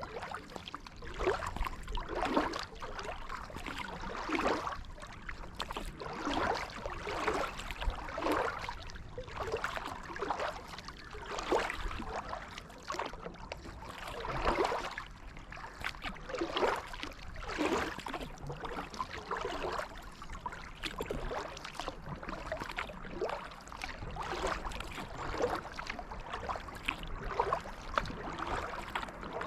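Kayak paddle blades dipping and pulling through creek water, alternating strokes with a swish and splash about once a second.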